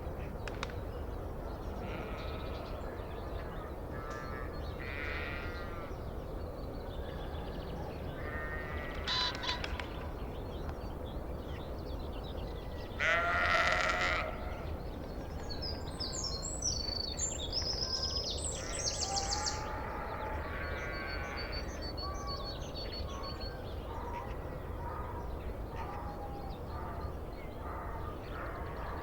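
Sheep bleating at intervals, one loud bleat about halfway through, with high bird chirps a little later over a steady low rumble.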